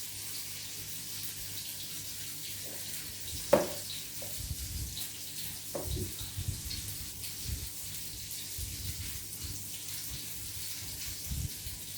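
Food frying in a pan with a steady hiss, with a sharp clink of a utensil or pan about three and a half seconds in and a few softer knocks after it.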